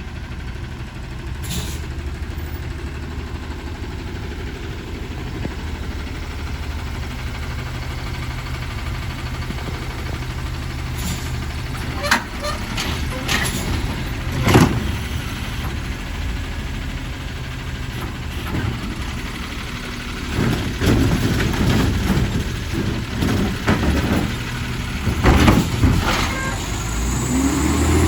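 Garbage truck's diesel engine running steadily, with a few sharp bangs and a stretch of clattering near the end.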